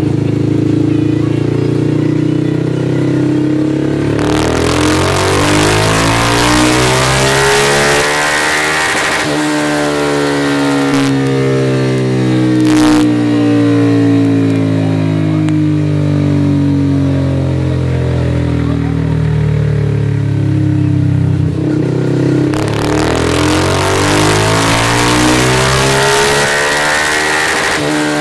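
Kawasaki Z125 Pro's single-cylinder four-stroke engine, fitted with a Kitaco Super Stock kit, making two wide-open-throttle pulls on a chassis dynamometer, each about five seconds long, with steadier running between them. It is running on a stock computer tune that the owner calls way too lean, and it is not fully warmed up.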